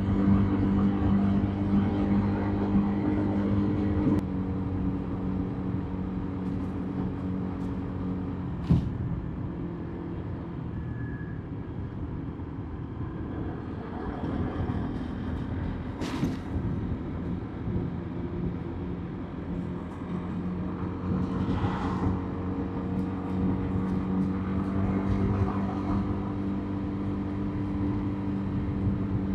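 Motorbike engine running at a steady road speed, with tyre and road noise underneath; the engine note eases off about four seconds in and builds again in the last third. A sharp click comes about nine seconds in, and brief hisses come in the middle and past two-thirds of the way.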